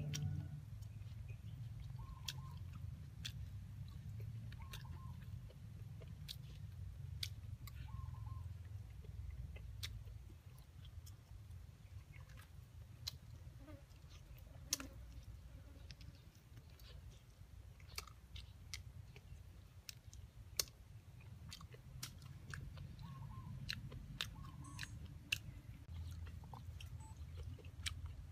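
A person chewing and biting pieces of fried snake by mouth, with crunches and sharp clicks scattered throughout, over a low rumble. Faint short bird chirps come in now and then.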